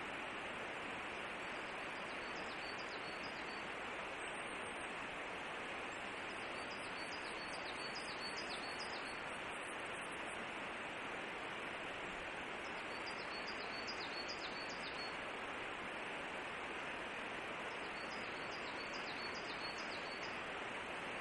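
A small songbird singing short phrases, each a quick run of high notes, four times about five to six seconds apart, over a steady background hiss.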